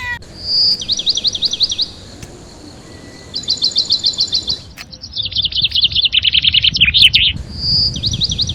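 A songbird chirping loudly in several fast runs of high, downward-sliding notes, some runs opening with a short swelling whistle.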